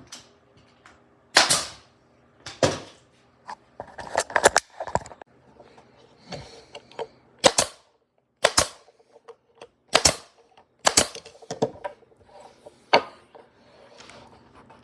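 Nails being driven into scrap wood to assemble a French cleat holder: a series of sharp, loud cracks at irregular spacing, mostly single strikes about a second apart, with a quick cluster of several about four seconds in.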